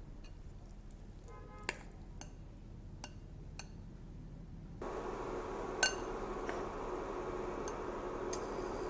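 Kitchen utensils clinking against a pan and bowl, a handful of separate light clinks, while bell pepper rings are set out and batter is spooned in. About five seconds in, a steady hiss from the frying pan starts abruptly, with one more sharp clink after it.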